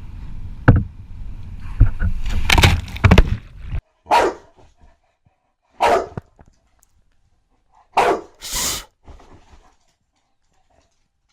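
A stretch of rustling and knocking with a loud thump near the start, cutting off suddenly; then a dog barks four times, the last two close together.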